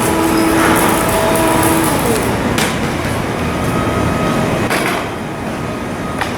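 Shipyard work noise: a steady industrial din with a machine hum that stops about two seconds in, and a couple of sharp metal knocks.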